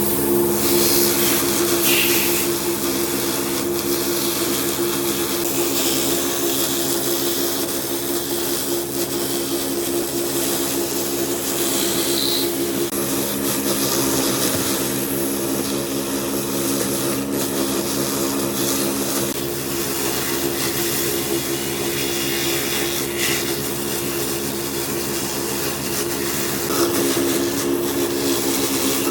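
A power tool's motor running continuously, its hum holding a steady pitch under an even hiss of cutting or grinding noise.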